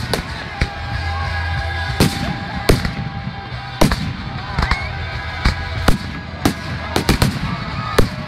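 Aerial firework shells bursting: more than a dozen sharp bangs at irregular intervals, coming thicker near the end.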